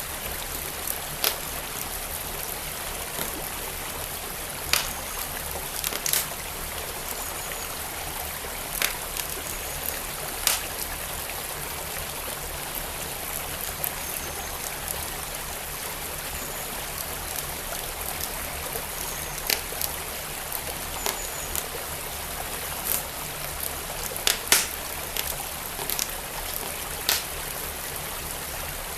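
A wood fire crackling, with sharp irregular pops over the steady rush of a flowing stream.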